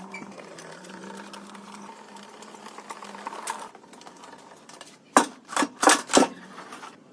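Woodworking shop sounds: a steady low hum that fades after about two seconds, then four loud, sharp knocks in quick succession near the end.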